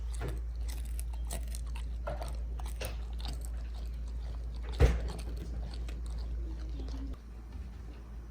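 Crunchy chewing and biting, a run of short crisp crunches over a steady low hum, with one sharper knock about five seconds in.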